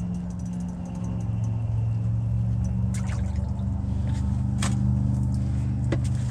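Water splashing and dripping as a hooked bluegill is brought in to hand, with a few short sharp splashes or knocks, over a steady low hum.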